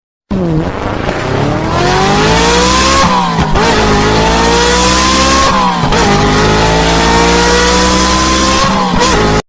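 Car engine sound effect accelerating hard through the gears. The pitch climbs, drops at two gear changes about three and six seconds in, and climbs again before cutting off abruptly near the end.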